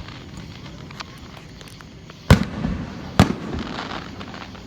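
Aerial firework shells bursting: two loud booms about a second apart, each trailing off for about half a second, after a fainter pop.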